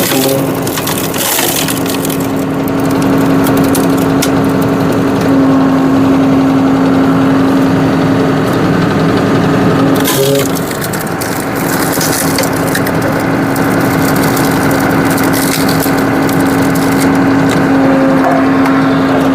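A tractor-mounted hydraulic log splitter forcing a log apart: wood cracking and splintering under the wedge, with heavier bursts of cracking just after the start and again about ten seconds in. Underneath runs the steady hum of the tractor engine driving the hydraulics.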